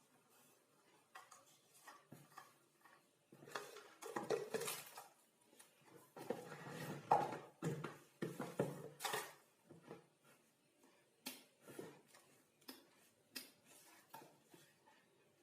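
Scattered light clicks and knocks of things being handled, with two louder spells of clattering and scraping in the middle. No steady motor is running.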